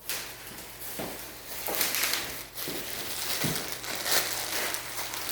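Handling noise from ceiling fan parts being picked up and moved about: a rustling that starts suddenly, with several soft knocks through it.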